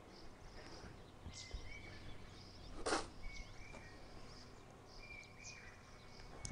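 Faint birdsong: small birds chirping and twittering in short, repeated calls, with one brief rustle about three seconds in.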